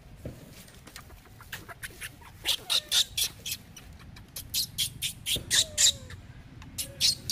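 Short, sharp bird chirps in two quick runs of several a second, about two and a half and five and a half seconds in, with a few fainter falling squeaks among them.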